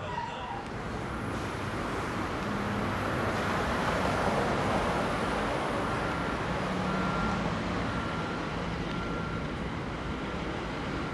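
Staten Island Railway R44 train running toward the listener on curved track: a steady rumbling noise of wheels on rail that swells about four seconds in, with a faint high whine that comes and goes.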